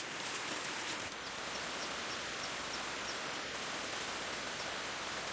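Steady outdoor background hiss, with a faint high chirp repeating about three times a second through the middle.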